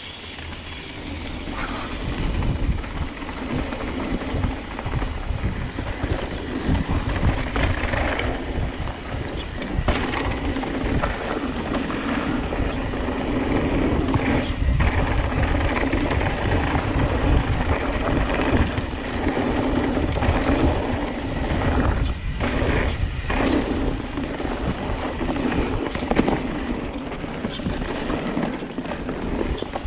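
Mountain bike descending a rough downhill trail: tyre and trail noise with irregular knocks and rattles from the bike, and wind on the microphone.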